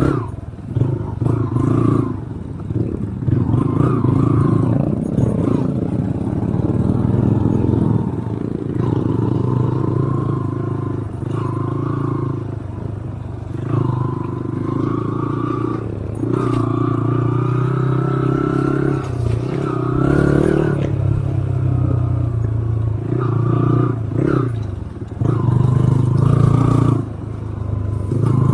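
A vehicle engine running on an off-road drive, its pitch rising and falling again and again as the throttle changes, with clattering and rattling over rough ground.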